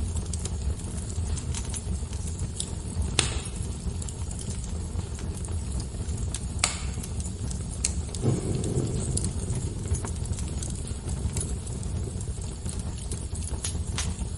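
Wood fire crackling, with a steady low rumble and scattered sharp pops, two of them louder about three and seven seconds in.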